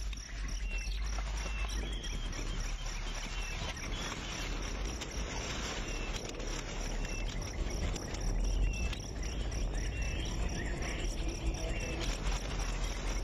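Insects, crickets or similar, chirping steadily in a pulsing high trill, with short higher chirps repeating about once a second over a low background rumble.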